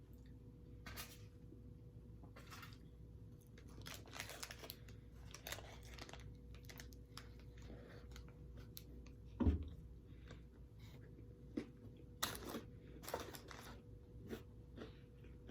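Faint scattered rustling and crinkling handling noises, with one low thump about nine and a half seconds in, over a faint steady hum.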